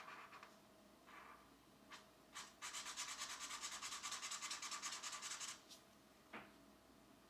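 Pencil scratching on paper in a coloring book. A few short separate strokes come first, then about three seconds of fast back-and-forth shading strokes, and a light tap near the end.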